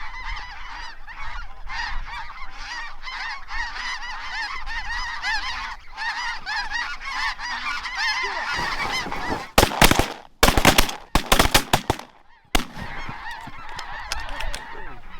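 A large flock of snow geese calling continuously, many overlapping high honks. About ten seconds in, a rapid volley of shotgun shots from several guns rings out over the calling, which resumes after a short pause.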